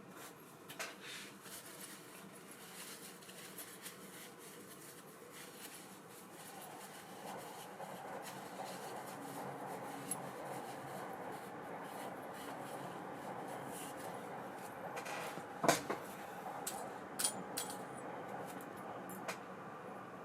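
Small metal parts of a baitcasting reel being handled on a workbench: faint steady rubbing with a few sharp clicks, the loudest about three quarters of the way through.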